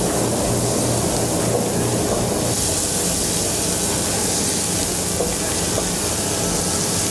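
Shrimp frying in melted butter in a stainless steel skillet: a steady, loud sizzle.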